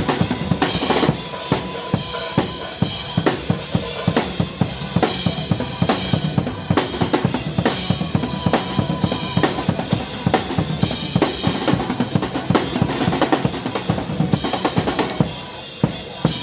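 Drum kit played in a dense, steady beat over a backing music track.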